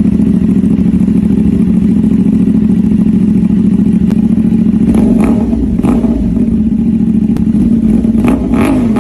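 CFMoto 450 motorcycle's parallel-twin engine running steadily through its exhaust. A few sharp cracks come about five to six seconds in, and the pitch dips and rises near the end as the throttle is blipped.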